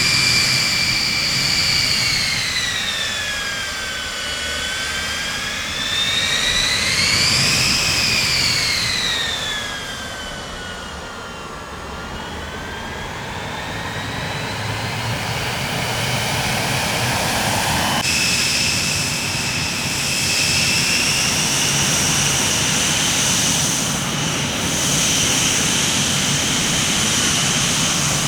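Jet airliner engines: a high turbine whine over a steady rushing noise, the whine sliding down, up and down again in pitch. About 18 seconds in it changes suddenly to a steadier whine.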